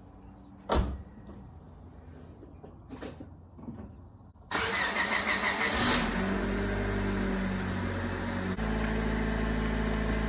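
A car door shuts about a second in. About four and a half seconds in, an EK-chassis Honda Civic (1996–2000) is cranked for about a second and a half until the engine catches, then runs at a steady idle that shifts once, about two and a half seconds after starting.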